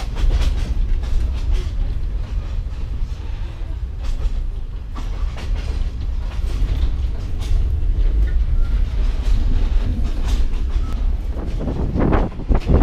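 Passenger train running on the line, heard from on board: a steady low rumble with irregular knocks and clatter from the wheels on the track. Near the end, wind buffets the microphone.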